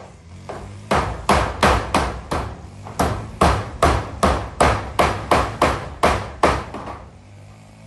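Hammer nailing zinc roofing sheets: a quick run of about fifteen sharp blows, roughly three a second, with a short break about two and a half seconds in.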